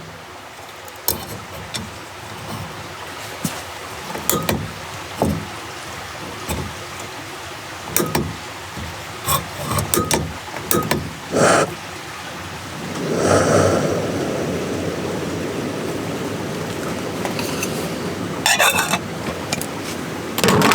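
A few scattered clicks and knocks of gear being handled, then about thirteen seconds in a single-burner camp stove lights with a whoosh and settles into a steady hiss.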